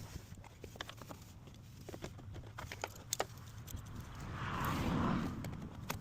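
Hand work on a car's lower radiator hose and its fitting: scattered light clicks and knocks, with a longer rubbing, scraping noise about four seconds in as the hose is worked loose.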